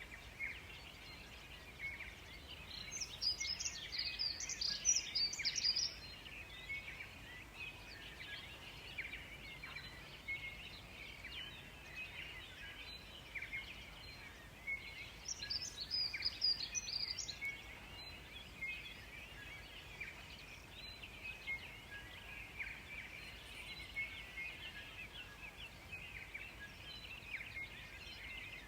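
Birds singing in a summer forest: a steady chorus of many small chirps, with two louder, higher-pitched bursts of song, one a few seconds in and one around the middle.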